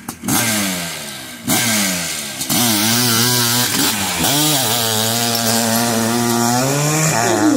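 A 600cc-class hillclimb motorcycle engine revving hard under full throttle. It surges in steps about a second and a half and two and a half seconds in, then holds high with the pitch wavering up and down as the throttle is worked and the rear wheel grips and slips.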